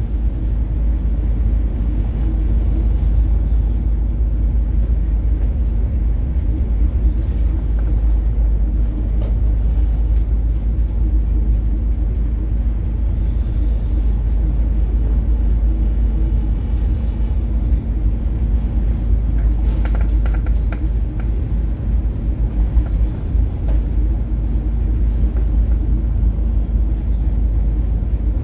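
Steady low rumble of a coastal cargo ship under way in heavy seas, with the ship's engine humming underneath and a brief clatter about twenty seconds in.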